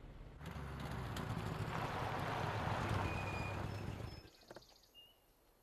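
Car driving past, a rushing sound over a low engine rumble that swells and then fades away after about four seconds.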